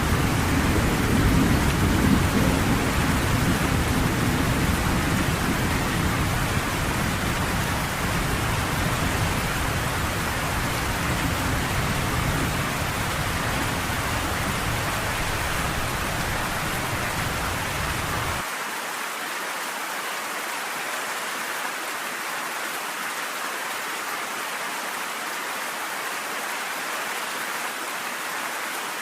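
Steady heavy rain with a low rolling thunder rumble underneath; the rumble stops suddenly about two-thirds of the way in, leaving the rain alone.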